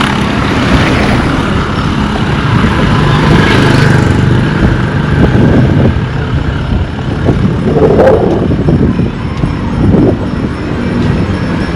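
Wind buffeting the microphone over street traffic, with vehicle engines passing and a brief louder swell about eight seconds in.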